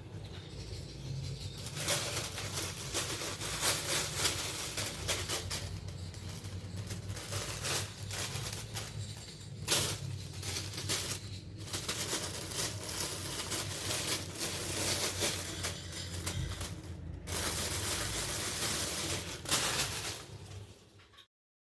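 Stationery and its packaging being handled: continuous rustling with many light clicks and taps over a low hum, cutting off suddenly near the end.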